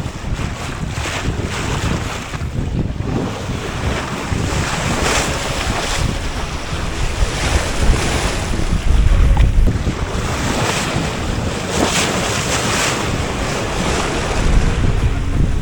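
Wind buffeting the microphone over the rush of waves washing past a sailboat's hull at sea, the water swelling and fading every second or two.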